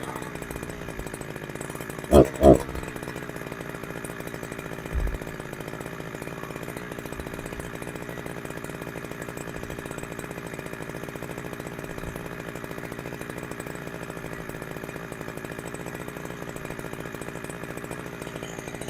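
Two-stroke chainsaw engine, a Chinese clone of the Husqvarna 372XP fitted with a genuine carburettor, idling steadily during carb tuning. Two brief louder blips come about two seconds in.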